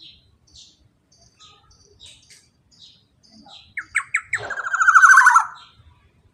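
Black-naped oriole (kepodang) song: a few loud, sharp notes about two thirds of the way in, then a fast rattling trill of about a second, over faint short high chirps repeating throughout.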